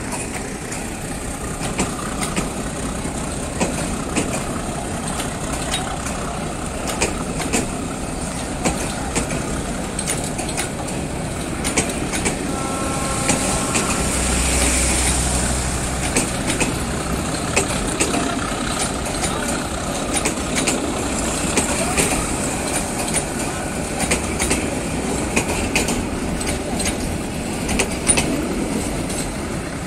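Bangladesh Railway passenger coaches rolling past as the train pulls out of the station, their wheels clicking over the rail joints above a steady rumble. A brief tone sounds about halfway through.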